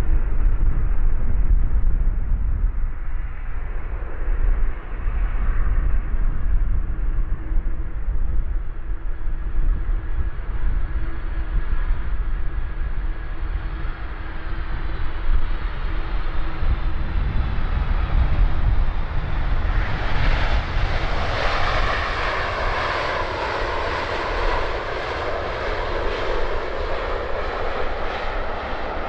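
Jet engines of a four-engine Boeing 747-400 rumbling as it approaches, with faint whining tones. About two-thirds of the way through they swell into a loud rush of engine noise that wavers as the jet passes closest.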